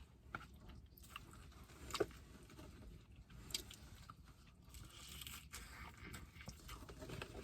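Close-up mouth sounds of someone eating tacos: chewing and wet lip smacks, heard as scattered small clicks, the sharpest about two seconds in.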